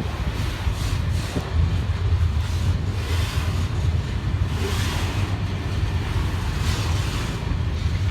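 Freight train cars rolling past in a steady low rumble, with wind gusting on the microphone.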